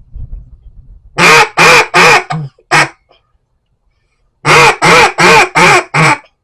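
Echo Timber double-reed duck call blown loudly in two runs of about five quacks each, the first about a second in, the second about halfway through, with a short pause between them.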